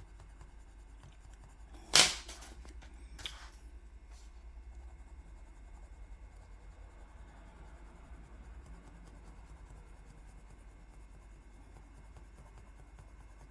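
A sharp click about two seconds in, followed by a fainter click about a second later, over faint room tone with a low hum.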